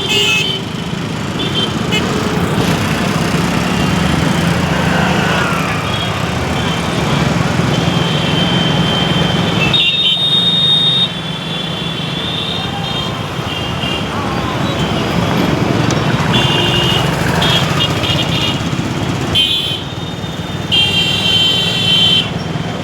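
Riding a motorcycle through busy city traffic: a steady run of engine and road noise, with other vehicles' horns honking in short blasts several times.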